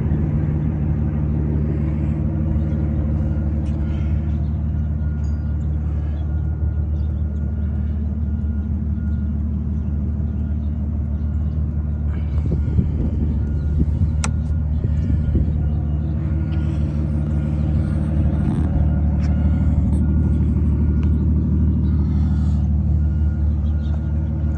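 Aston Martin Rapide S's 6.0-litre V12 idling steadily, with a few faint clicks over it.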